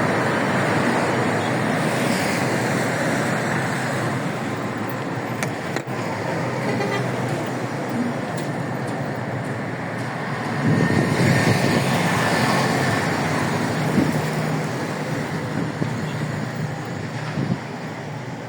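Motor vehicle running amid roadway noise. It gets louder about ten seconds in, with a steady low hum for several seconds.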